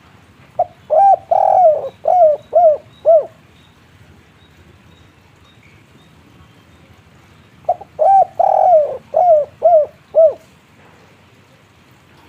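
Spotted dove (tekukur) singing its 'kuk 3' song twice, the phrases several seconds apart. Each phrase is a short coo, a longer drawn coo, then three short clipped 'kuk' notes.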